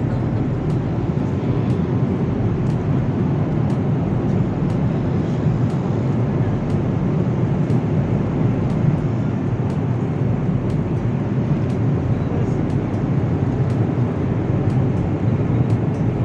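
Jet airliner cabin noise: a steady, unchanging rumble of engines and airflow heard from inside the cabin.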